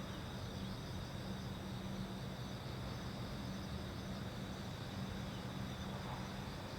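Crickets chirring steadily over a constant low hum.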